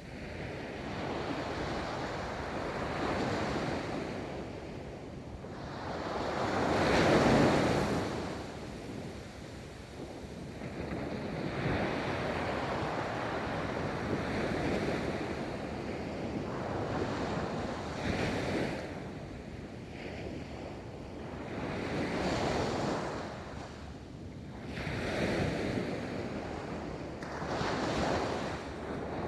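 Ocean waves breaking and washing up a beach, one after another, each swelling and fading over a few seconds, the loudest about seven seconds in. Wind rumbles on the microphone throughout.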